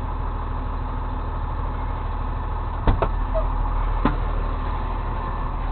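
Truck engine idling steadily, with a sharp knock about halfway through, a lighter one just after it, and another about a second later.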